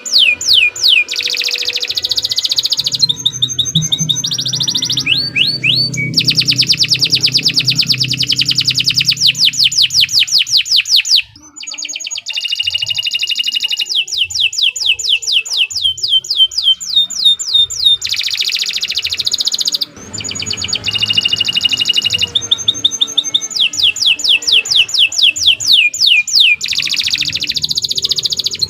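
Domestic canary singing a long, continuous song: fast rolls of repeated high descending notes, changing from one roll to the next, with some held steady notes. The song breaks off briefly twice, about 11 and 20 seconds in.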